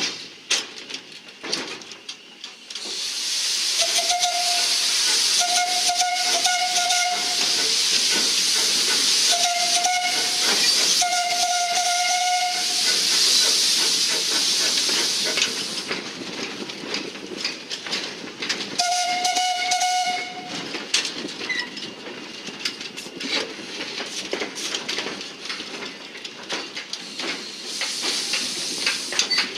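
Railway locomotive whistle sounding five short blasts of one steady pitch over a loud hiss, with scattered clicks and knocks.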